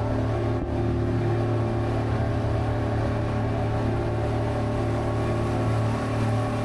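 River cruise boat's engine running steadily: an even, low hum with several steady tones above it.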